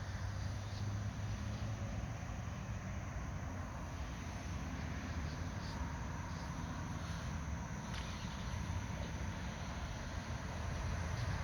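Steady outdoor background rumble with faint, short high chirps scattered through it.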